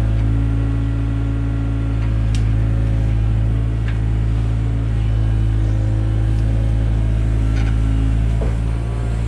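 Takeuchi TB175 excavator's diesel engine running at a steady speed, a constant low drone, with a few faint clicks.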